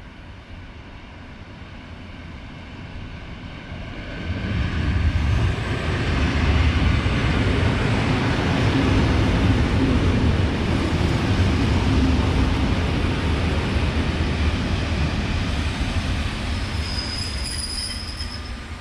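A PKP EN57 electric multiple unit pulling into the station: a rumble of wheels and motors that swells sharply about four seconds in, holds steady as the carriages pass close by, and eases as the train slows. A thin high squeal comes in near the end as it brakes.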